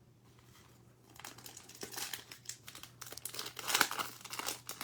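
Trading card pack wrapper crinkling and tearing as it is opened by hand, starting about a second in and growing busier, loudest near the end.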